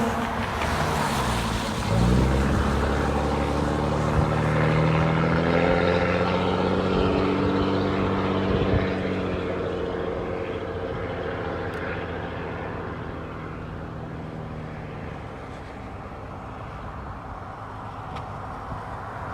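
Car engine running. Its note rises sharply about two seconds in, holds steady, then slowly drops in pitch and fades away.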